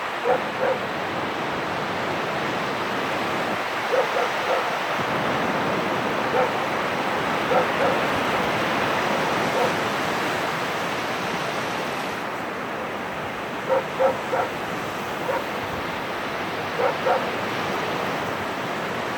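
Steady wash of sea surf, with a dog barking in short yaps, singly or in quick pairs, every few seconds.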